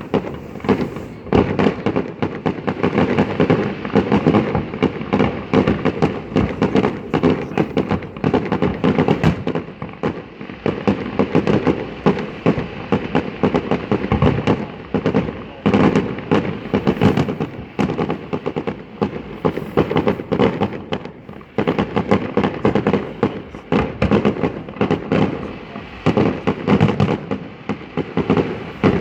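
Fireworks display: a dense, continuous run of bangs and crackles, easing briefly about two-thirds of the way through.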